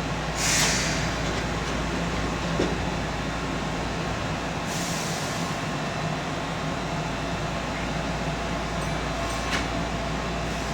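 Keihan Electric Railway local train running between stations, heard from inside the car: a steady low rumble of wheels and motors. Two short hisses come about half a second and about five seconds in, with a few faint clicks.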